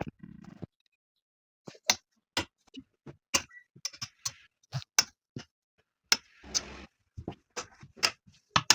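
Irregular sharp clicks and light knocks of small household objects being handled and set down during tidying, with a brief rustle about six and a half seconds in.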